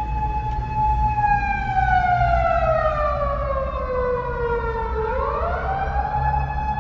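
A siren-like tone, one steady pitch with a buzzy edge, that holds, then slides slowly down for about four seconds and swings quickly back up to its first pitch near the end, over a low rumble.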